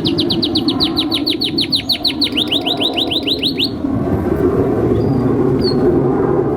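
Domestic canary singing a fast trill of repeated downward-sweeping notes, about seven a second, which breaks off a little over halfway through. Steady low background noise runs underneath.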